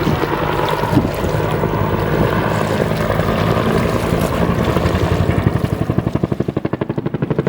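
Bell AH-1 Cobra helicopter in flight, its turbine and two-bladed rotor running steadily. In the last couple of seconds the rotor turns into a rapid, even blade thudding.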